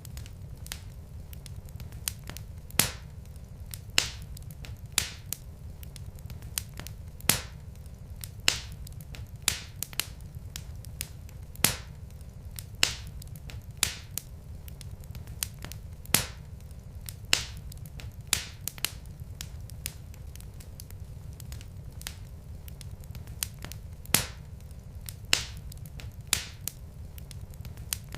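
Wood fire in a fireplace crackling: sharp, irregular pops roughly one or two a second over a steady low rumble.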